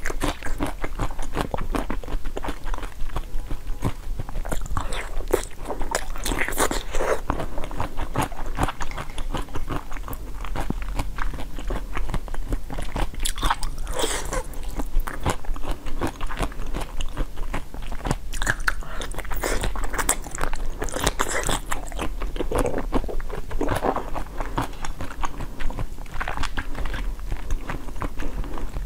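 Close-up eating sounds of a person biting into and chewing jelly: a dense, continuous stream of small clicks and crunches.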